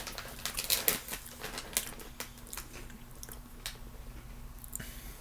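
Crunchy veggie straws being bitten and chewed: a quick run of sharp crunches in the first two seconds, then a few scattered ones.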